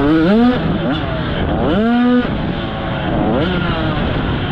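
Dirt bike engines revving: the pitch climbs and drops again and again with the throttle, more than one bike heard at once.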